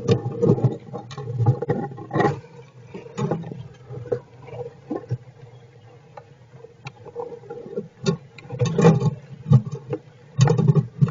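Squirrels shifting and scratching in their shelter: irregular bursts of rustling with sharp knocks and bumps, loudest near the start, about nine seconds in and near the end, with quieter stretches between.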